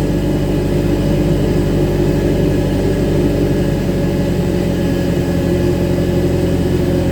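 Pushback tug's engine running steadily under load: a deep, even drone with several steady low tones.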